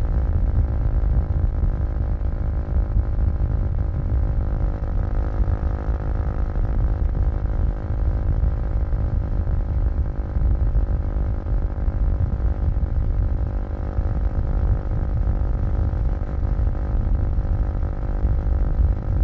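Kawasaki KLX250's single-cylinder four-stroke engine running at steady revs while riding, over a heavy low rumble.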